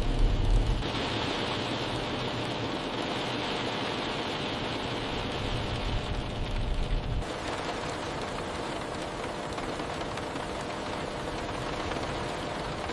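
Heavy rain falling as a steady hiss, with low rumbles at the start and again about six to seven seconds in. The hiss changes character abruptly about a second in and again around seven seconds.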